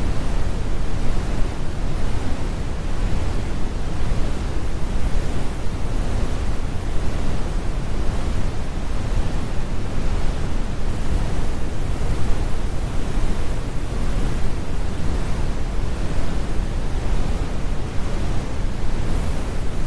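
Steady synthetic brown noise: an even rumbling hiss, heaviest in the bass and falling away in the treble, with no changes or events.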